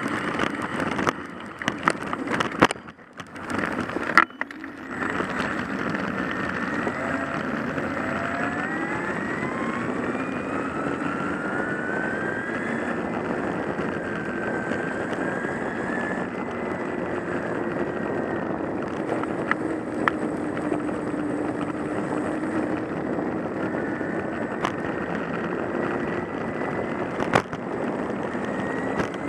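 A car being driven, with steady engine and road noise. The engine's pitch rises as it speeds up and then wanders as it goes along. A few sharp knocks and brief dropouts come in the first five seconds.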